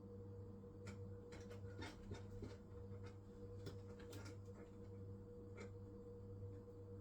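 Hisense washing machine running a wool cycle: a steady low hum with scattered light clicks and rustles from the gently turning drum.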